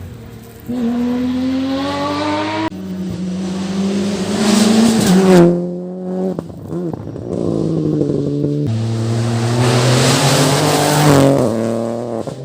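Rally car engine at full throttle, its pitch climbing then dropping suddenly at each gear change, several times over, as the car passes.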